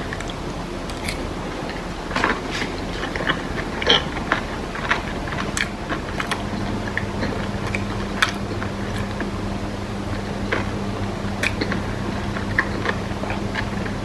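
Close-up chewing and biting of kimbap and kimchi, with irregular small crunches and wet clicks. A low steady hum comes in about halfway through.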